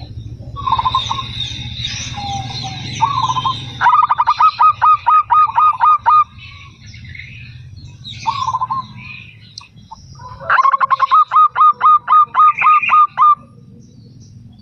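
Zebra dove (perkutut) cooing: a few short single notes, then two runs of rapid staccato notes at about five a second, each lasting two to three seconds. A steady low hum and high chirping sit under the first few seconds.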